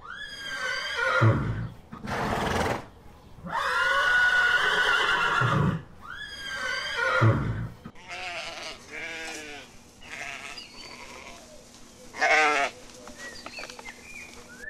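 Farm animals calling: three loud, drawn-out calls in the first eight seconds, then a run of shorter, quieter calls.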